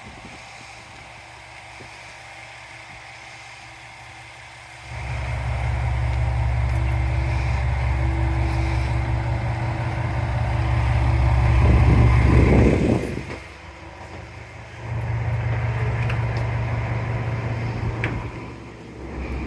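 JR Shikoku 2000 series diesel train running: after a quieter first few seconds, a low engine and running rumble comes in about five seconds in and grows to its loudest about twelve seconds in. It drops away for a moment, then comes back, and fades just before the end.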